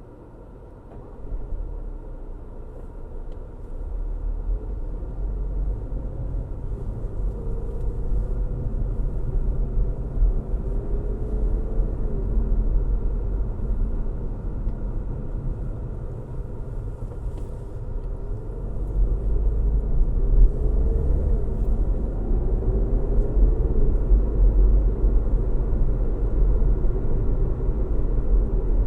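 A moving car's low road rumble and engine hum. It swells about a second in and grows louder again about two-thirds of the way through, with a faint engine note sliding up and down.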